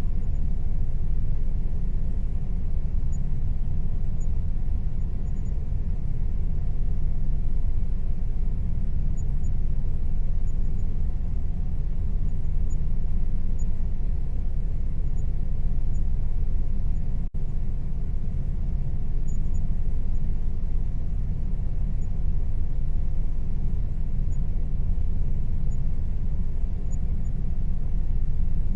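Air conditioner running steadily: a constant low hum with a faint steady tone above it, broken by one momentary gap about seventeen seconds in.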